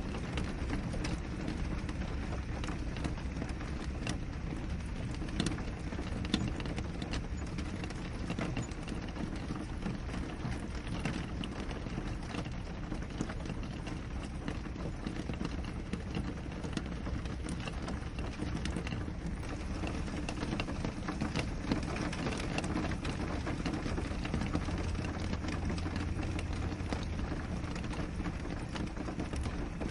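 Steady rain against a window pane: an even hiss with a dense patter of single drops tapping on the glass.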